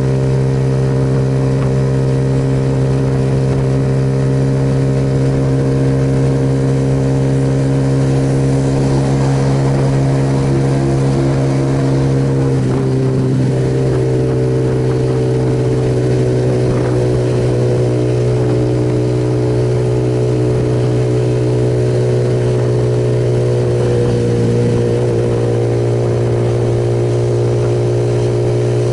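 Suzuki Yes motorcycle's single-cylinder engine running steadily at cruising speed, with a brief change in pitch about halfway through, under a steady rushing noise.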